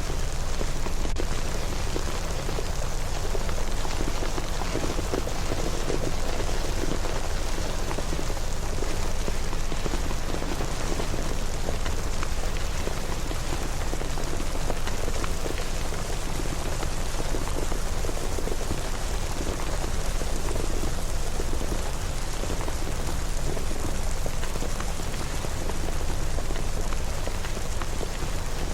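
Steady rain falling and pattering on surfaces, an even wash of drops with a constant low rumble underneath.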